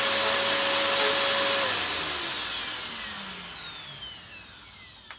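Hoover Purepower U3450 upright vacuum cleaner's motor and brush bar running with a steady whine. It is switched off about a second and a half in and winds down, its pitch falling and fading over the next few seconds. A short click comes near the end.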